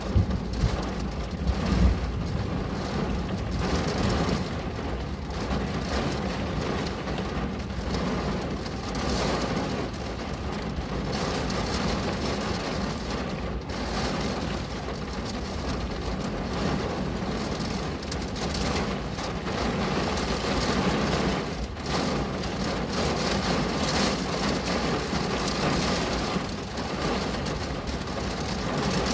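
Steady rain falling on a window pane, an even hiss of drops. A low rumble sits under it in the first couple of seconds.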